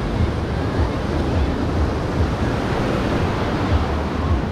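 Ocean surf on the beach, a steady rushing wash, with wind buffeting the microphone in uneven low rumbles.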